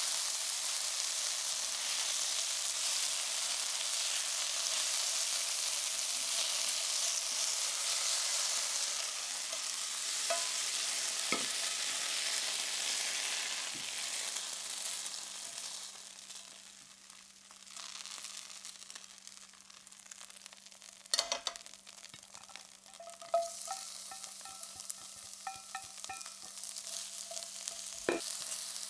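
Diced chicken breast sizzling in oil in a stainless steel frying pan as it is stirred with a spatula. The sizzle drops away for a few seconds about halfway through, a few sharp knocks follow, and sizzling picks up again with sliced shallot frying in the pan.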